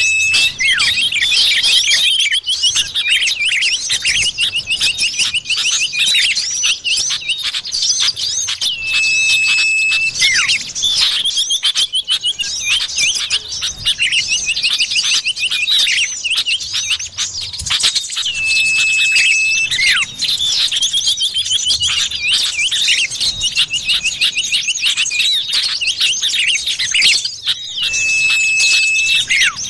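Common iora (cipoh) calls used as a bird lure: dense, continuous high chirping from many overlapping calls, with a long, level whistle that comes back about every nine seconds.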